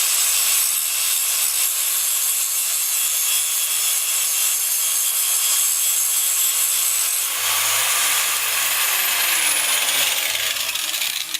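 Power grinder grinding steel, a loud continuous grinding noise, most likely dressing a fresh weld on the swing arm. About seven seconds in the sound brightens, and a slowly falling whine follows.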